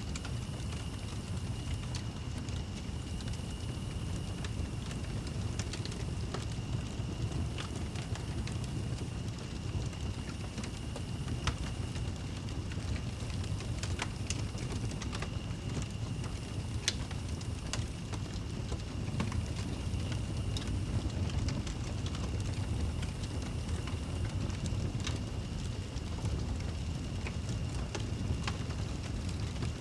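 Wood fire crackling in a fireplace: scattered sharp pops and snaps over a steady low rumble, with a faint steady high tone underneath.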